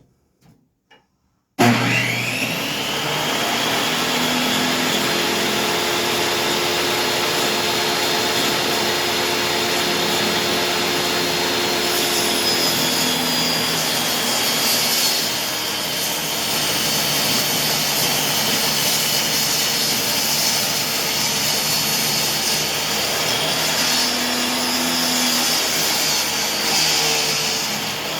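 Table saw switched on about a second and a half in, its motor spinning up quickly, then running steadily while it rips a long strip of wood.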